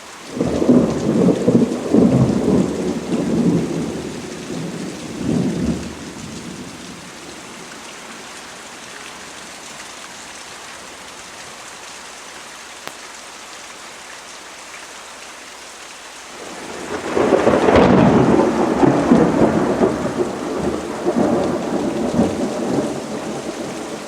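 Steady rain falling, with two long rolls of thunder: one rumbling up right at the start and dying away over about six seconds, the other building about two-thirds of the way in and still rumbling at the end.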